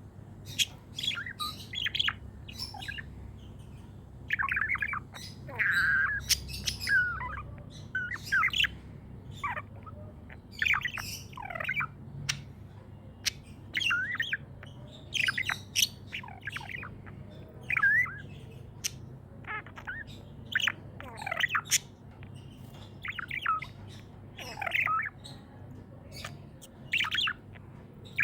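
Budgies (budgerigars) chattering: many short chirps and harsh squawks in quick, irregular succession, with a faint steady hum underneath.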